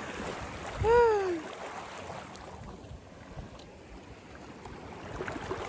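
Steady wash of wind and surf noise, with one short high-pitched vocal exclamation about a second in that rises and then falls in pitch.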